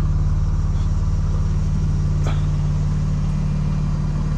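BMW M4 Competition's twin-turbo inline-six idling steadily through a catted mid-pipe, a low even drone. A faint click comes about two seconds in.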